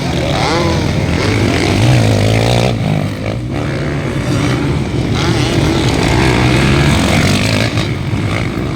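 Motocross dirt bikes racing on the track, several engines running and revving at once, their pitch rising and falling as the riders work the throttle.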